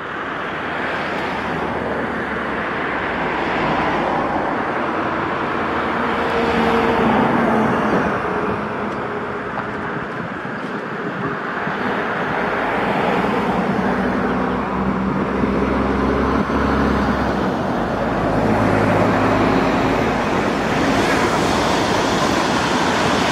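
Electric passenger trains running past on a multi-track main line: a continuous rush of wheels on rails with a low rumble and a few faint steady hums, growing louder about seven seconds in and again in the last few seconds as trains pass close by.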